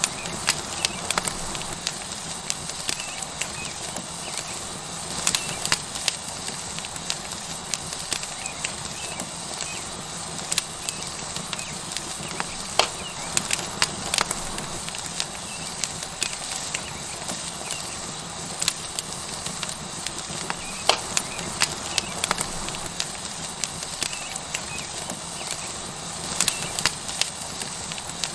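Tomahawk steak sizzling on a hot rock over a wood fire: a steady sizzle with irregular sharp crackles and pops from the burning wood.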